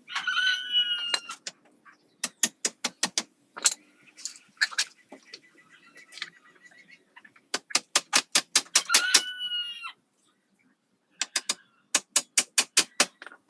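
Three quick runs of sharp clicks, about eight a second, from the work on the boxes. A chicken gives a drawn-out, falling squawk twice, at the start and about nine seconds in.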